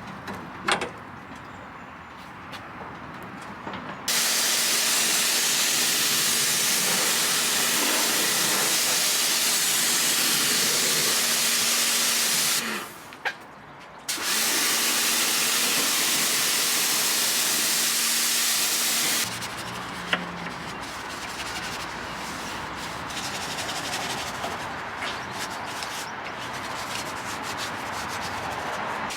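Two long bursts of machine-driven spray hissing over a steady motor hum, with a short break between them. Quieter rubbing with small ticks follows near the end.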